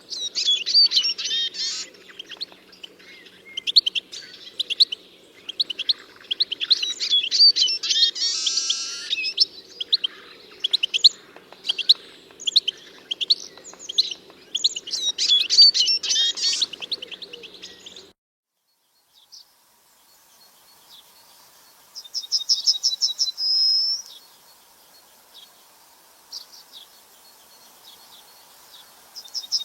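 Songbirds singing: many quick chirps and trills overlap for most of the first eighteen seconds, over a faint steady low rumble. After a sudden cut, a single bird sings a short, fast trill twice, the two phrases several seconds apart.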